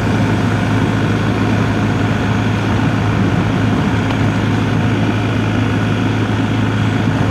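BMW R1250GS boxer-twin engine idling, a steady low hum that holds level throughout.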